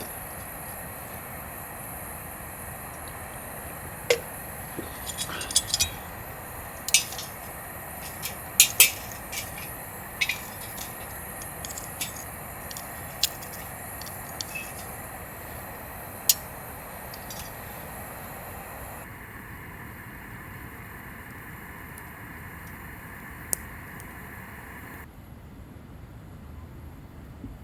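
Sharp light clinks and taps of camp cookware or utensils being handled, a cluster of them in the first half and a single one later, over a steady background hiss.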